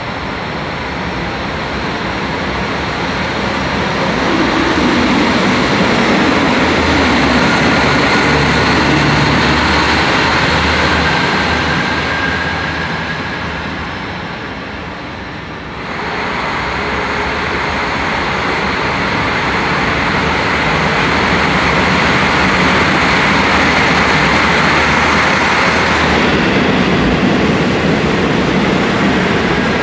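KiHa 40 series diesel railcar running, its diesel engine droning steadily. The sound drops briefly and then changes abruptly about halfway through, and carries on as loud as before.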